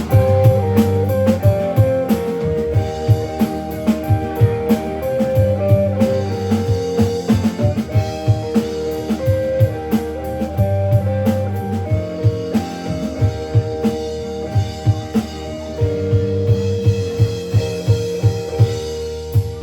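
A live rock band of guitars, bass and drum kit playing an instrumental passage with a steady drum beat under a guitar melody, as part of a sound check.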